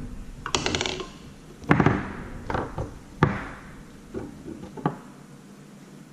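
Foosball being played on a Tornado table: a run of sharp knocks as the ball is struck by the plastic men and hits the table, with a short rattle about half a second in.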